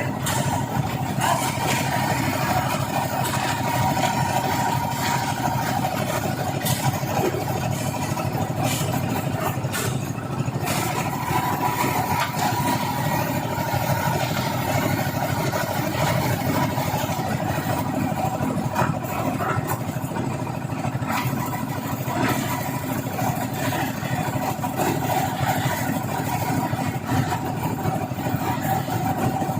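An engine running steadily, with a held whine in the middle pitches and a few sharp knocks about a third of the way in.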